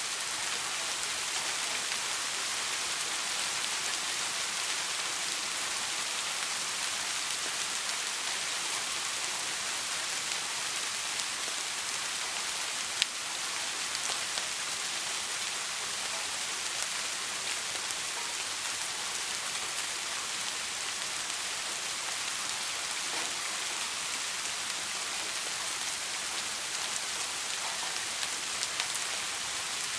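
Steady soft rain falling on a surface, an even hiss of many drops with no thunder. There is a single sharp tap about halfway through.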